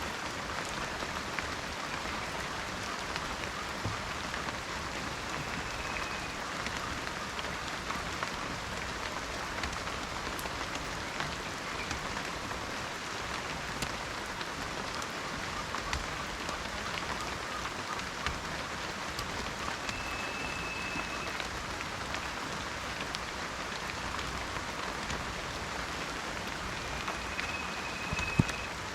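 Steady rain falling in a forest, with many individual drops ticking. Three short, high, steady whistled tones come and go. A single sharp tap near the end is the loudest moment.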